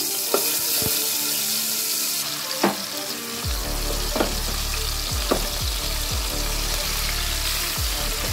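Marinated chicken pieces sizzling and frying in hot oil in a metal pot, with a few sharp knocks as pieces go in and a wooden spatula stirs them.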